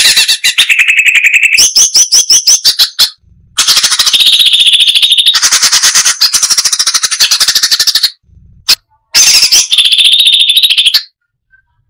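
Cucak cungkok (brown-breasted bulbul) singing in long runs of very fast, closely packed notes, three main runs separated by short pauses, stopping about a second before the end.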